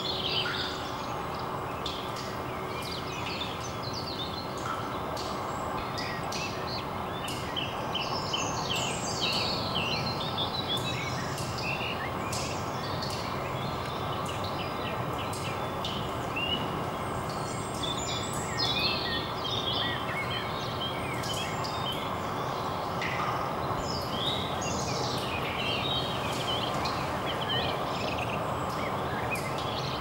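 Birds chirping and calling, many short chirps scattered throughout, over steady background noise.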